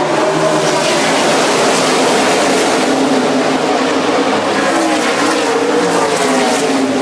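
A pack of NASCAR stock cars' V8 engines running at full speed, many engine notes overlapping and drifting up and down in pitch over a steady roar of noise.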